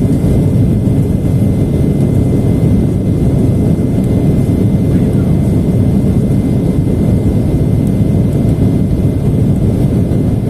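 Steady low rumble inside the passenger cabin of an Embraer E175 jet airliner in its climb: its GE CF34 turbofan engines running at climb power, mixed with airflow over the fuselage.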